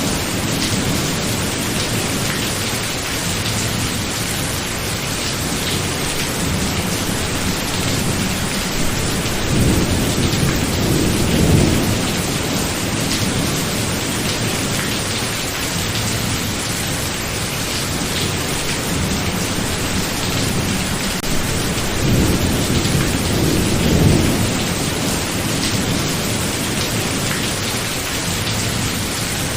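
Steady heavy rain with rolling thunder rumbles, swelling twice: about a third of the way in and again about three quarters through.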